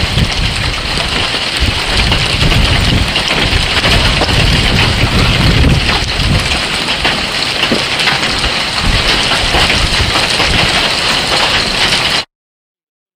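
Large hail and rain pelting down in a thunderstorm, a dense rattle of many small impacts, with strong wind buffeting the microphone. The sound cuts off abruptly near the end.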